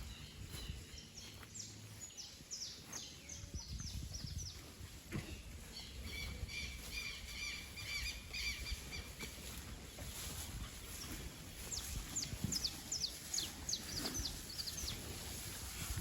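Birds calling: a run of quick, falling whistled notes, a repeated chattering call about six seconds in, then another run of falling notes in the second half, over steady low background noise.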